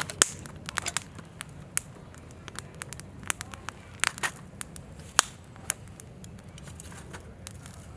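Wood campfire crackling, with irregular sharp pops from the burning firewood.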